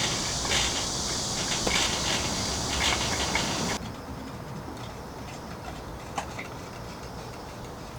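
Rain pattering steadily, a dense hiss full of small drips and ticks. About four seconds in it cuts off abruptly to a quieter, duller patter of rain.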